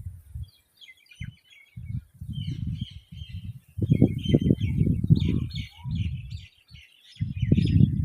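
Babbler chicks giving faint, scratchy chirping calls, over louder, irregular low rumbling bumps that come and go in clumps.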